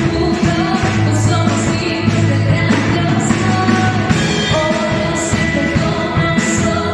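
Christian worship song: singing over a full band with drums and bass, played at a steady loud level.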